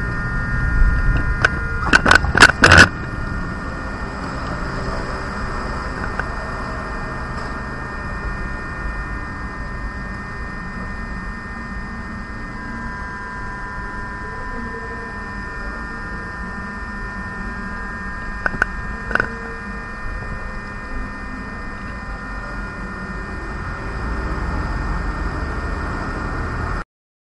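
Steady electrical hum and hiss holding several fixed tones, with a few sharp clicks a couple of seconds in and again past the middle; the sound cuts off suddenly just before the end.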